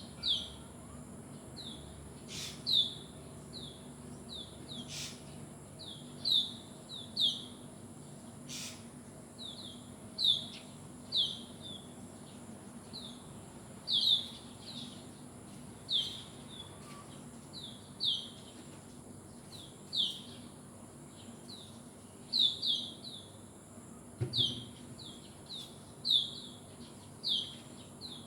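A bird repeatedly giving short, high chirps that slur downward, singly or in quick pairs, about one every second. A few faint clicks sound in the first third.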